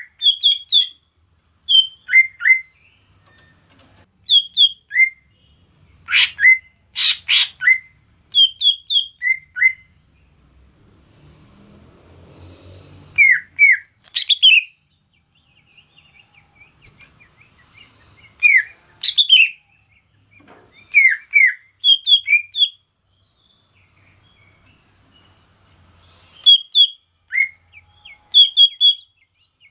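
A cucak ijo (greater green leafbird) calling. It gives sharp, clipped chirps and whistles in quick groups of two to five notes, with pauses of a few seconds between groups.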